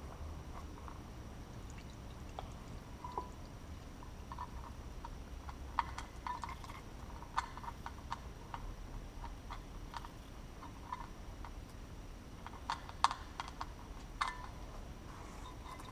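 Irregular light clicks and small metallic clinks of hand tools and parts being handled on a Kawasaki KLX400 motorcycle engine, with a sharper clink about 13 seconds in.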